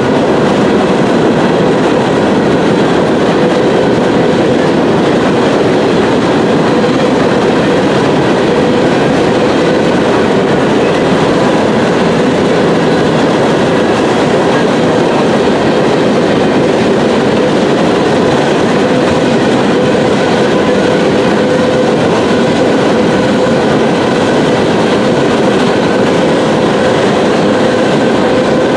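Empty steel coal hoppers of a freight train rolling past: a steady rumble and rattle of wheels on rail, with a faint steady ringing tone over it.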